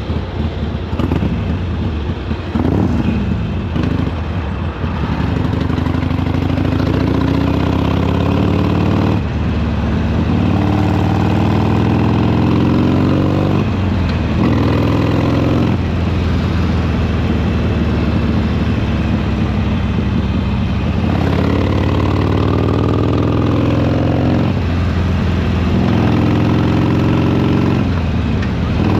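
Harley-Davidson Sportster Iron 883's air-cooled V-twin exhaust under way, rising in pitch under throttle and dropping back sharply about five times.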